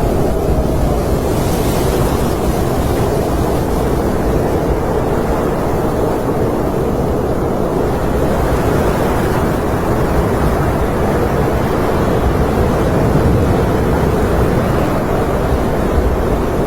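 Steady snowstorm wind: an even rushing noise, heaviest in the low and middle range, with no breaks.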